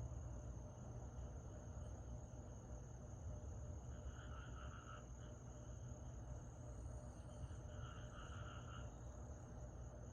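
Summer night insects: crickets keep up a steady high-pitched trill, and a second, lower-pitched pulsing call comes in twice, about four and eight seconds in, over a low background rumble.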